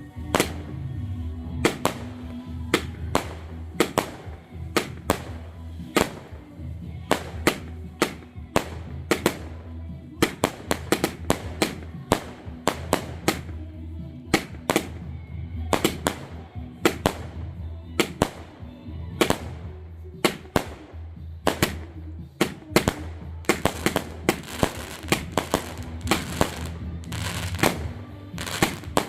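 Fireworks going off in a rapid, irregular series of sharp bangs and crackles, thickest near the end, over background music.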